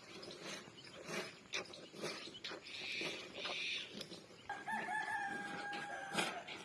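A rooster crowing once, a long held call starting about four and a half seconds in, over scattered short clicks and knocks.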